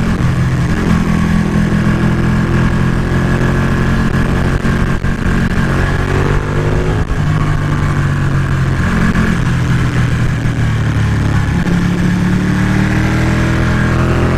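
Ducati Panigale 1199's V-twin engine under way, its pitch rising and falling repeatedly with throttle and gear changes, over a steady rush of wind.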